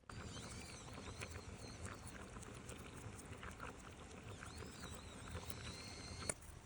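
Wood fire crackling and popping in quick, irregular small clicks, with birds chirping in the background.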